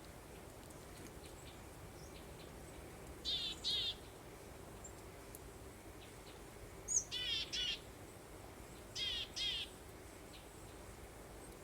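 A small songbird chirping in short phrases of two or three quick, wavering high notes, three times: about three seconds in, around seven seconds in, and about nine seconds in. Under the chirps runs a steady, soft hiss of breeze.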